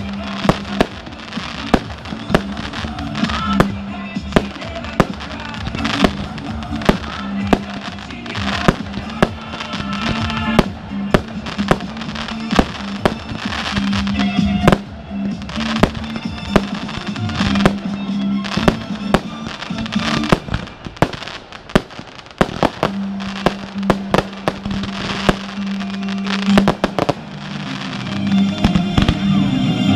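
Fireworks display: shells bursting in a rapid, irregular run of sharp bangs and crackles, getting denser and louder near the end, with music playing underneath.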